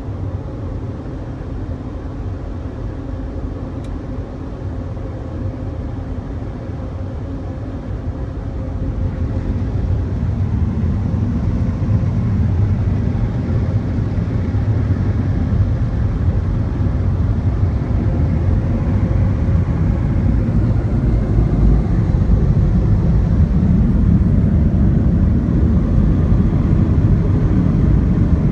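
Washworld Razor high-velocity automatic car wash running: a steady, loud rumbling roar that grows louder about ten seconds in.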